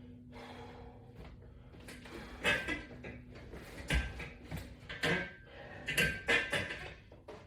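A person working through ab crunches: short, irregular bursts of breath and movement noise, roughly one every second, with a faint steady hum in the first few seconds.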